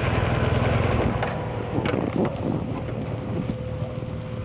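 BMW R1200GS boxer-twin engine running, its low rumble dropping away about a second in, with wind buffeting the microphone.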